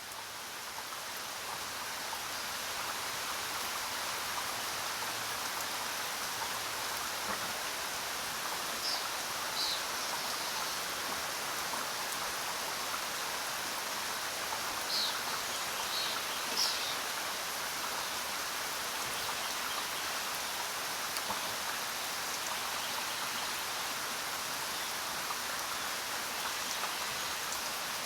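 Steady heavy rain hissing, swelling up over the first few seconds and then holding even. A few brief high bird chirps come through the rain around the middle.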